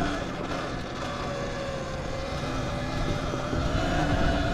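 Zero XB electric dirt bike's motor whining steadily, its pitch drifting slightly as it rolls, over low wind rumble on the microphone.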